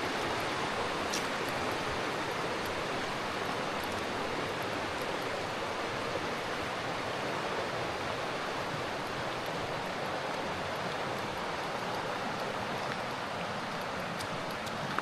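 Steady, even rush of fast-flowing river water, the sound of the Curueño falling over limestone at the Nocedo waterfall and along its channel.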